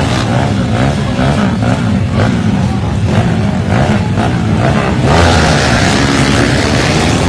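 Loud motorcycle engines revving, their pitch wavering up and down, with a sudden rush of noise about five seconds in.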